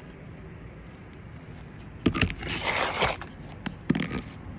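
Hammer blows driving a roofing nail through a ridge shingle: three knocks about a second apart, starting about two seconds in, with a rough scraping noise after the first.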